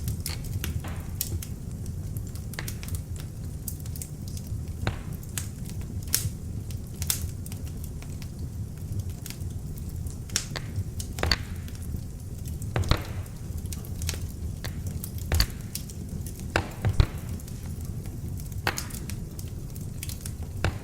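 Beech-wood log fire burning in an open fireplace: a steady low rumble of flames with irregular sharp crackles and pops, a few louder pops in the middle.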